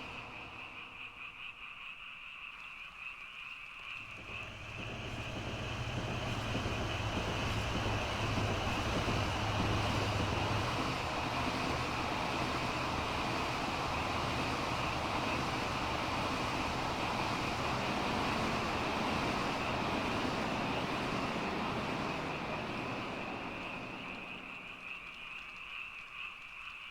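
A steady chorus of frogs calling, with a vehicle passing that swells about four seconds in, holds for a long stretch and fades near the end.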